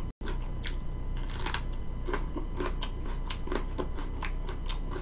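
Close-up crunching of a raw green chili pepper being bitten and chewed: an irregular run of crisp clicks, several a second, over a low steady hum.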